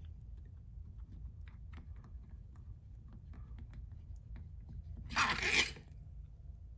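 Light clicks and scraping as a ring-sizing tool is worked back and forth over a seal ring on a 4L60E transmission part, with a louder scrape about five seconds in, over a low steady hum.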